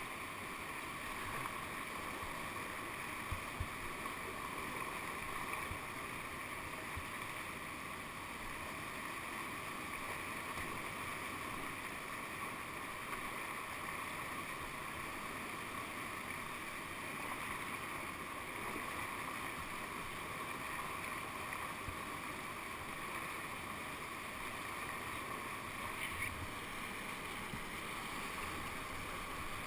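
Rushing whitewater of a man-made whitewater channel, a steady even wash, with a couple of faint knocks, one a few seconds in and one near the end.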